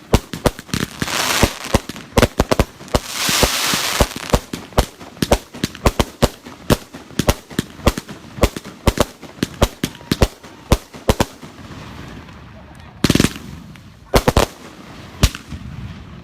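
Consumer firework cakes firing in rapid succession, several sharp reports a second, with two stretches of loud hissing about one and three seconds in. The firing thins out after about eleven seconds, leaving a few louder clustered bangs near the end.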